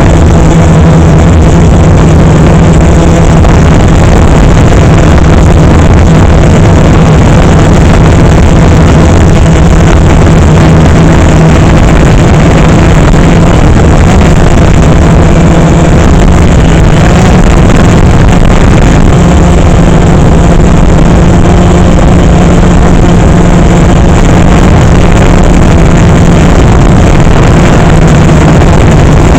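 DJI Phantom 3 quadcopter's four motors and propellers running in flight: a steady, very loud hum with a strong low drone, over a rushing noise.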